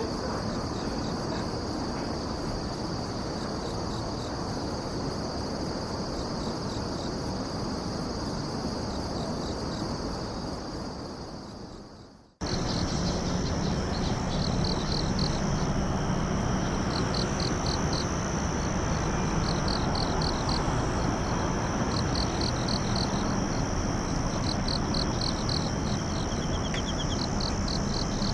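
Night chorus of crickets and other insects: a steady high-pitched ringing over a low background hiss, fading out about twelve seconds in and cutting back in at once. After the cut, one insect adds short, rapid chirp trills about every two seconds.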